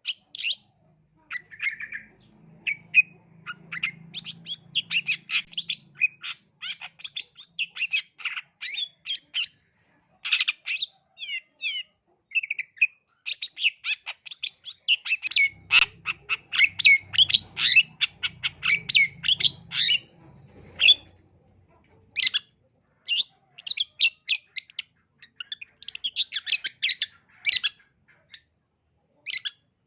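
Long-tailed shrike (cendet) singing a fast, chattering song of short sharp notes, squawks and trills, in rapid runs broken by brief pauses.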